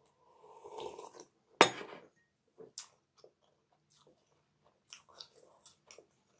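A sip of milk from a glass mug, then one sharp crack about a second and a half in, followed by chewing of a crusty bread crust with small crunchy clicks.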